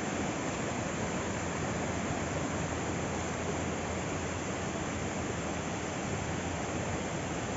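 Steady rushing of a river flowing over rocks, an even hiss with no breaks.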